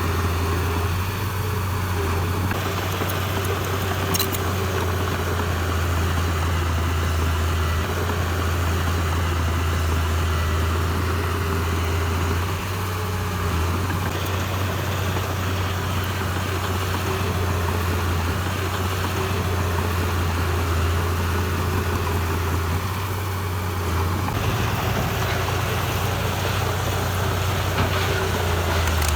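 Heavy diesel engine of construction machinery running steadily: a deep, continuous drone with a faint steady whine above it, shifting slightly about five seconds before the end.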